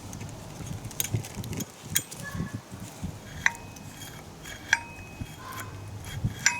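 Metal tools and parts clinking and tapping against each other, with scattered light knocks. Three sharper metal strikes ring on briefly.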